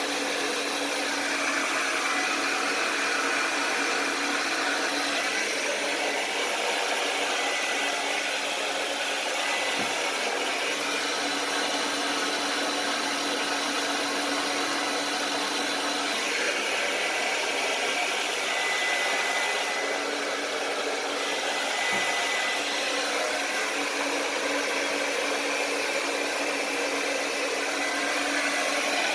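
Hand-held hair dryer running steadily, a continuous rush of blown air with a faint steady hum.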